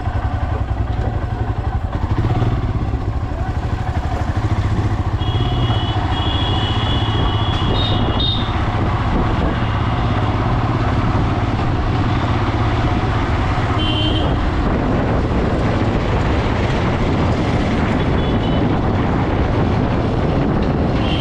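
Motorcycle running at road speed, with steady engine and road-and-wind noise. A vehicle horn is held for about three seconds some five seconds in, and gives shorter beeps later.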